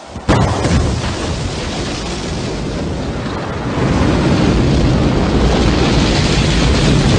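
Rocket engines firing at a launch: a loud, dense rumble of exhaust noise that starts suddenly a moment in and grows louder about four seconds in.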